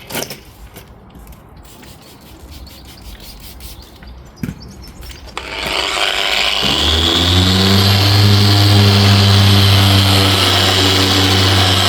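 Faint handling and rubbing, then about five and a half seconds in a machine polisher with a medium pad starts up on the car's paintwork. It spins up briefly and then runs steadily with a strong low hum.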